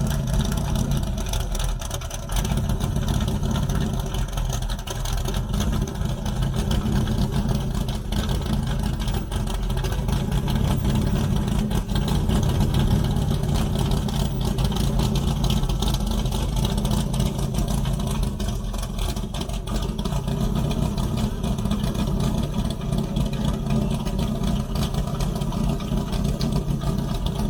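Car engine running steadily at idle with a deep, even rumble. It cuts off abruptly at the end.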